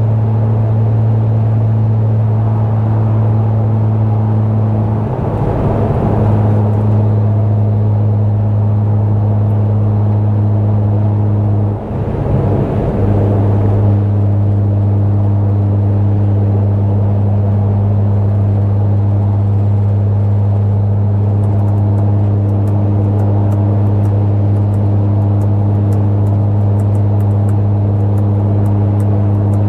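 Stage 2+ tuned BMW F10 535i engine with a loud exhaust, droning steadily at cruise. The engine note shifts briefly twice, as with a gear change or a change of throttle.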